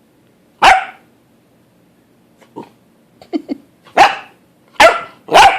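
Dog barking: one bark about half a second in, a few quieter short sounds around the middle, then three barks in quick succession near the end.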